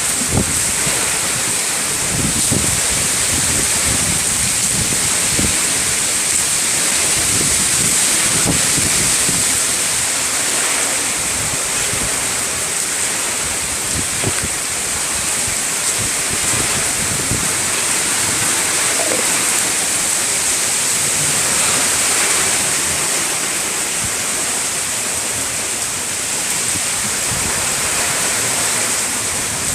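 Heavy rain pouring steadily, with gusts of wind buffeting the microphone.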